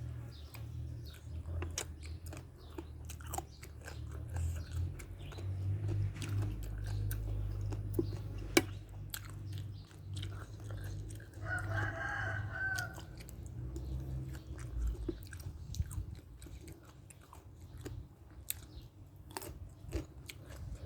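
Close-miked eating: chewing and crunching, with scattered sharp bites, over a low steady hum. Partway through, a rooster crows once in the background for about a second and a half.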